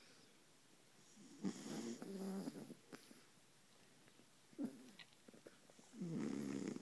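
Beagles snoring in sleep: a long, pitched snore about a second and a half in, a short one about halfway through, and another long snore near the end.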